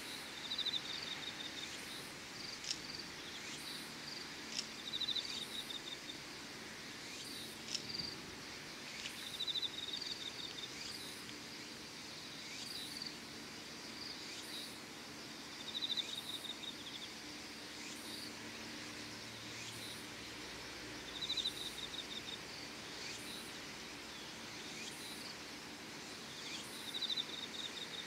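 Insects, crickets among them, singing. A short pulsed trill comes back every few seconds over a steady high-pitched trill, with a faint low hum underneath.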